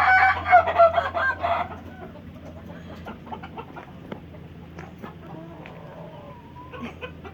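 Indonesian laughing chicken (Ayam Ketawa) rooster crowing its rapid, stuttering 'laughing' crow, loud for about the first two seconds, followed by fainter clucks and calls.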